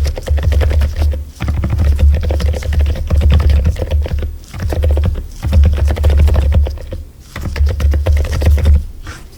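Continuous fast typing on a mechanical keyboard, a dense run of key clicks that breaks off briefly a few times.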